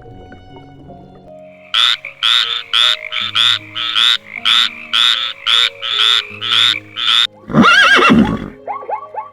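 Animal calls over background music: a fast run of about a dozen short, identical calls, a bit over two a second, then one louder, longer call with a wavering pitch.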